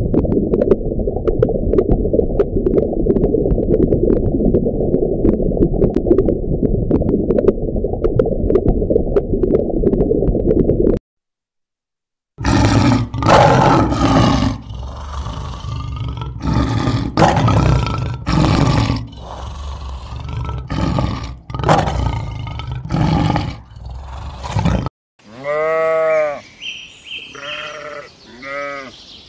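A dense low rumble with scattered clicks for about eleven seconds. After a short break, a series of loud lion roars and grunts, and near the end sheep bleating several times.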